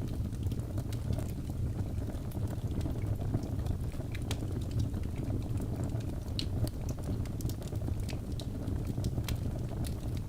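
Wood fire burning in a fireplace: a steady low rumble of flame with many scattered sharp crackles and pops from the logs.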